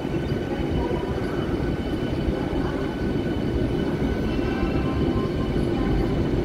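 Vande Bharat Express electric trainset moving along the platform: a steady rumble of the running train, with a few faint thin high tones over it.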